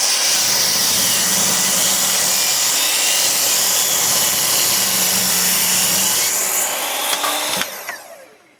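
Table saw ripping an oak board down to thickness, a loud steady cutting noise over the hum of the running saw. It cuts off sharply about seven and a half seconds in and dies away over the last second.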